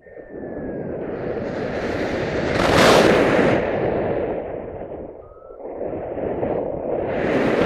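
Wind buffeting the microphone in gusts: a rushing noise that swells to its loudest about three seconds in, eases off a little after five seconds, then swells again near the end.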